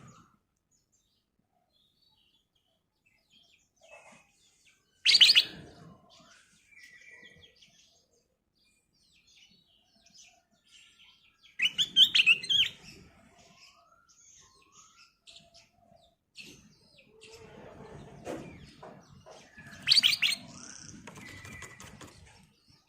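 Black-crested bulbul (kutilang emas) singing: three loud bursts of song about five seconds in, near the middle and near the end, with softer chirps and calls between them.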